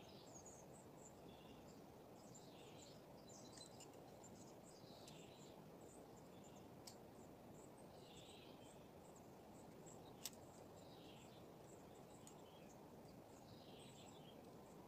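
Faint outdoor ambience: a bird repeating short, high chirping phrases every second or so over a steady low rushing noise, with a faint sharp click about seven seconds in and a louder one about ten seconds in.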